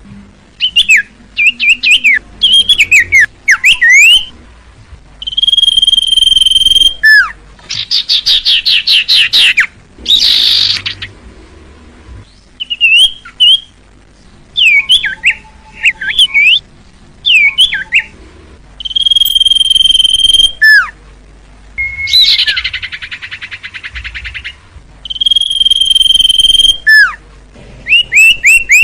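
Iora (cipoh) singing in repeated bouts. Long steady high whistles, each held about a second and a half, alternate with quick down-slurred notes, fast trills and a harsher rattling chatter.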